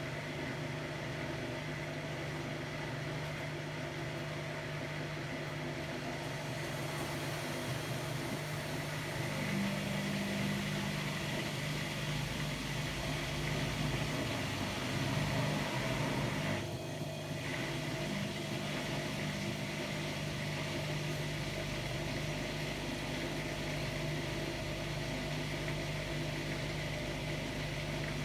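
Hotpoint-Ariston Aqualtis AQD972F washer-dryer running: a steady mechanical hum with a few steady tones. A slightly higher hum comes and goes twice, and the sound briefly dips about two-thirds of the way through.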